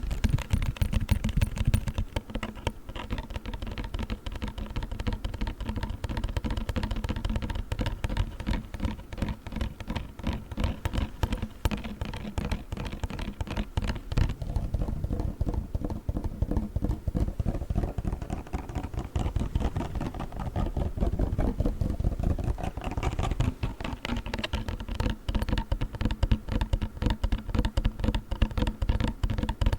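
Fast tapping and scratching on a cold pack, a dense, continuous run of small clicks and taps.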